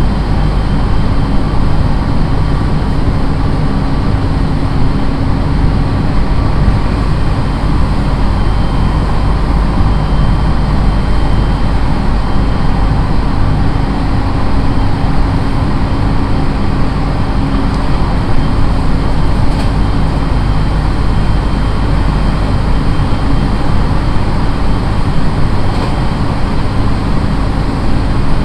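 Running noise heard inside a JR East 701 series electric train at steady speed: a continuous rumble of wheels on rail with a steady hum underneath.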